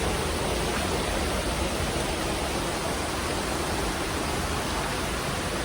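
Steady rushing of water from a hill waterfall and its stream.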